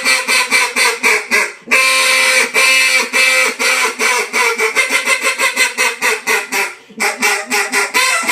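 New Era Duck Nasty poly duck call blown in a loud run of quacks. The notes are choppy at first, with a longer drawn-out quack about two seconds in, then a quicker string of short quacks, a brief break near the end and more quacks.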